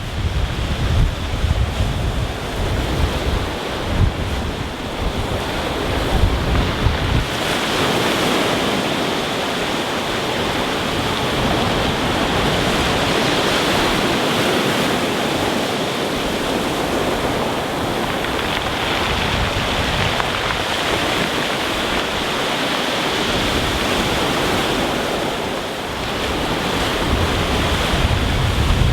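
Rough sea surf breaking and washing up a stony beach, a continuous rushing hiss. For the first several seconds wind buffets the microphone with gusty low rumbles, then the surf's hiss carries on steadily.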